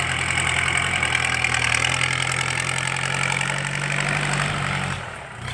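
Diesel engine of an L50 tractor fitted with a loud, open aftermarket exhaust pipe and no turbo, running steadily at low speed; it goes quieter about five seconds in.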